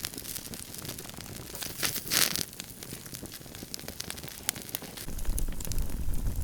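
Wood campfire crackling with scattered small pops, a brief rustling burst about two seconds in, and wind rumbling on the microphone from about five seconds.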